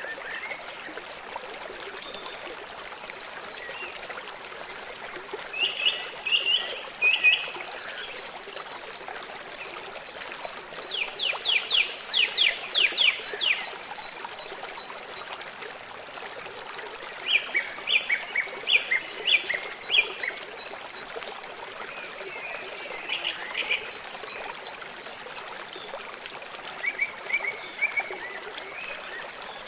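A small stream trickling steadily, with songbirds singing over it: every few seconds a short phrase of rapid repeated high notes, about five phrases in all.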